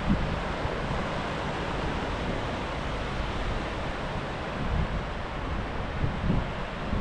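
Surf washing steadily on a sandy beach, with wind buffeting the microphone in short gusts, the strongest just after the start and about five and six seconds in.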